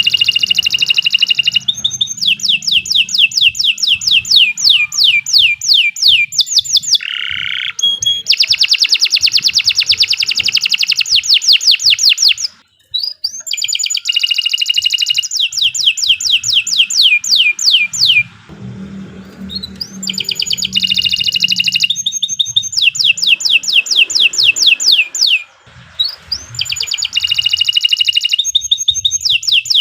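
Domestic canary singing a long, continuous song of rapid trills: each phrase is a fast string of repeated downward-sweeping whistled notes, with brief pauses between phrases.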